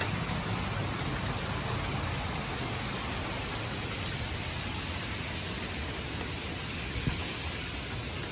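Hurricane rain falling steadily, an even hiss of rain on surfaces, with one brief knock about seven seconds in.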